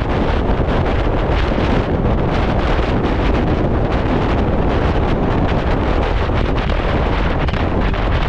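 Heavy, steady wind noise buffeting the microphone of a moving motorcycle, drowning out any engine sound.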